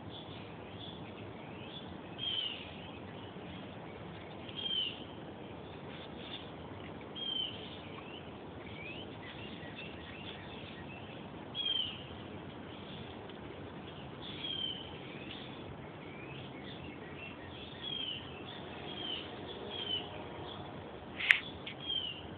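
Birds chirping: short high calls repeating every couple of seconds over a steady low background noise. A single sharp click near the end.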